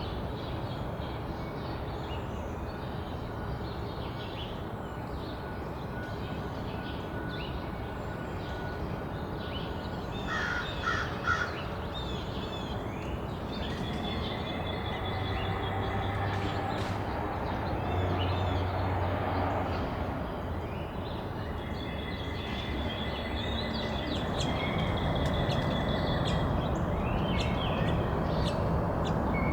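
American crow cawing, a quick run of about three harsh caws about ten seconds in, over a steady low background hum.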